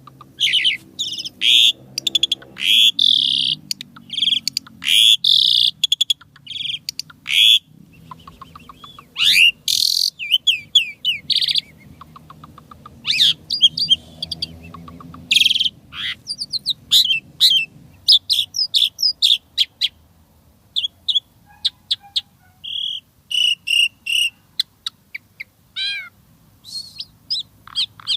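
Asian pied starling (jalak suren) singing a long, varied song of sharp whistles, chatters and trills, with quick runs of repeated notes and mimicked phrases of other birds.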